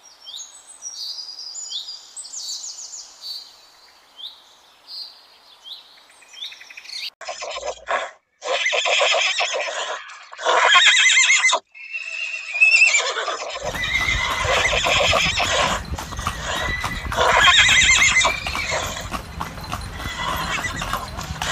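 Horses whinnying several times, each call loud and quavering, over a rough background that comes in about two thirds of the way through. High, repeated chirping calls come before the first whinny.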